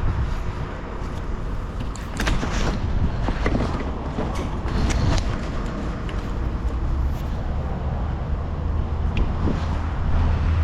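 Vehicle engine running with a steady low rumble and road noise, with a few sharp clicks about two and five seconds in.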